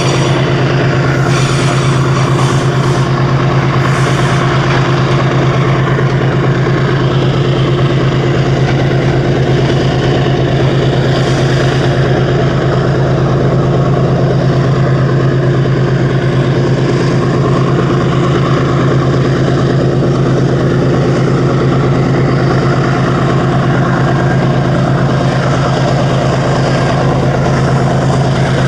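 A steady mechanical hum with a strong low drone and a few fixed higher tones, unchanging throughout.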